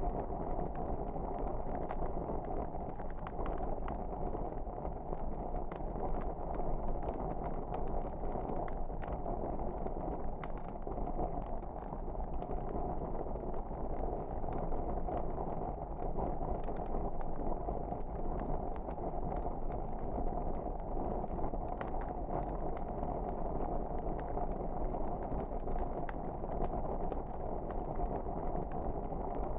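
Log fire in a fireplace burning steadily: a low, even rumble of flames with frequent small crackles and pops scattered throughout.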